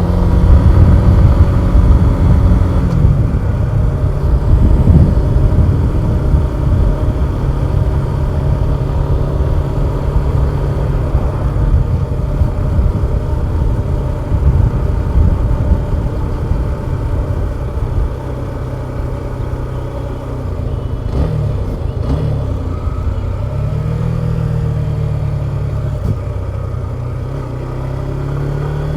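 Suzuki Gixxer 150 SF's single-cylinder engine running under way, its pitch dropping and rising several times in the second half as the rider eases off and accelerates.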